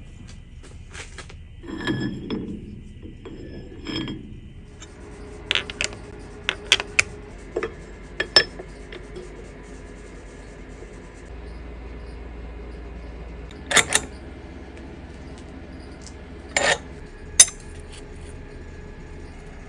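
Metal tools and parts clinking and knocking together in sharp, scattered hits. A steady machine hum starts about five seconds in.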